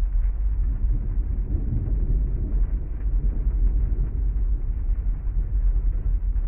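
Heavy rain with a deep, continuous rumble of thunder, swelling about two seconds in.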